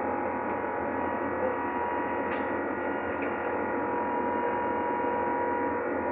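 Airliner cabin noise inside an Airbus A350 during takeoff or climb: a steady rush of engine and air noise carrying a steady whining hum, with a couple of faint clicks.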